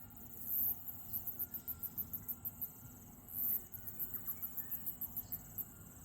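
Insects chirping, most likely crickets: a rapid high-pitched pulsing at about seven pulses a second, broken by a longer buzz about half a second in and again near the end. Underneath is a faint, steady low wash of surf from waves rolling in on the beach.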